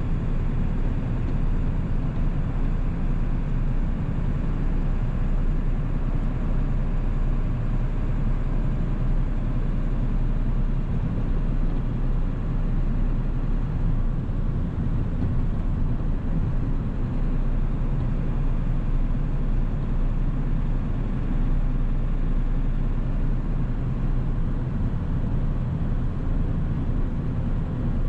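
1997 Ford 7.3-litre Powerstroke turbo-diesel V8 running at a steady cruise while driving, a continuous low drone that holds even throughout.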